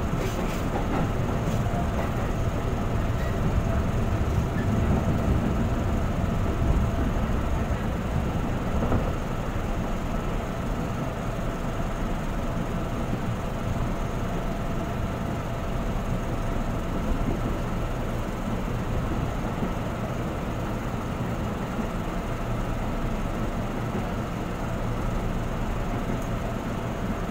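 A JR 205 series electric commuter train running at speed, heard from inside the carriage: a steady rumble of wheels on the rails with a faint steady hum above it.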